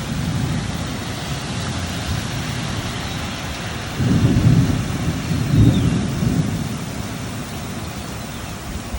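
Steady rain falling, with thunder rumbling low and loudest twice, about four seconds in and again about a second and a half later, before fading back under the rain.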